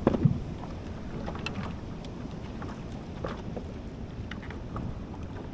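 Water splashing and lapping around a fishing kayak, with scattered short knocks and splashes, the loudest just after the start, over light wind on the microphone.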